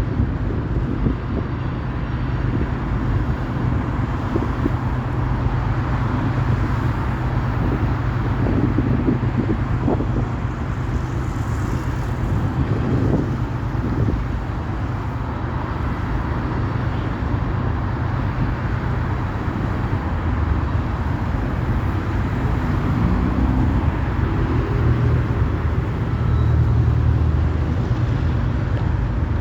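Steady low vehicle rumble with a constant wash of noise, swelling slightly a few times.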